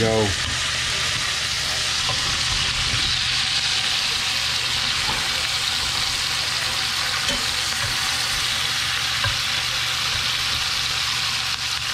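Sliced whitetail deer heart and onion rings sizzling steadily in oil in a cast-iron skillet, with a few light clicks of a fork turning the pieces.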